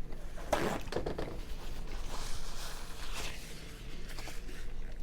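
Slurping white chicken chili soup from a spoon: a short rough slurp about half a second in, then a longer, fainter one.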